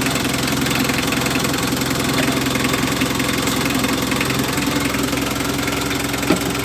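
Mitsubishi L300's 4D56 diesel engine idling steadily with its usual diesel clatter, with one short knock near the end. The van has been hard to start, which the mechanic puts down to either a failing feed pump or a very dirty fuel filter.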